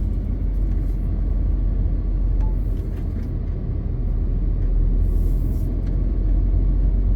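MAN TGX 520 truck's inline-six diesel engine running under way, with tyre and road noise: a steady, even low rumble.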